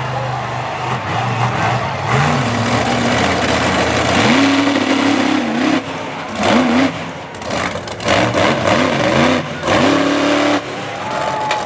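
Monster truck engine at full throttle over a dirt track, its pitch climbing and dropping again and again as the driver works the throttle, with several quick revs in the second half.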